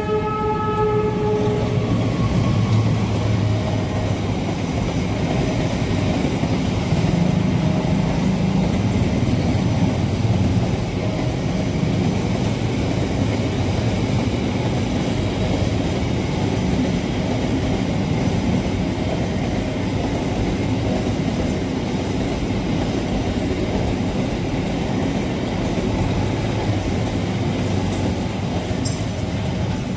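Container freight train passing a level crossing: the locomotive's horn sounds and ends about a second and a half in, then the wagons roll by with a continuous low rumble. A short warning tone from the crossing signal repeats every few seconds.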